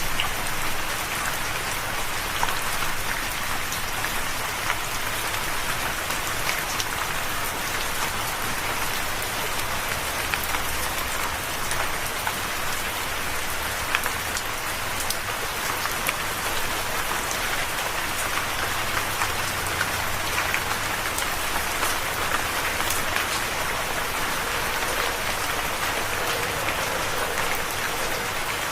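Steady rain falling, an even hiss with individual drops pattering and ticking on a surface.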